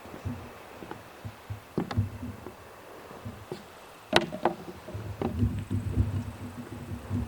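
Footsteps of a hiker walking in trekking boots, a run of low thuds and knocks, with a sharp click about four seconds in.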